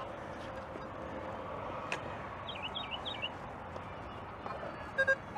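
Faint outdoor background with a few short bird chirps a little past halfway and a single sharp click about two seconds in. Short repeated pitched tones start near the end.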